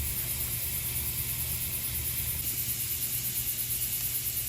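Campfire burning with a steady low rumble and hiss, with night insects trilling steadily and high-pitched behind it.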